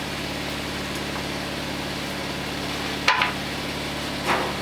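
Steady mechanical hum, like an engine idling, with two short sharp knocks: one about three seconds in and a softer one about a second later.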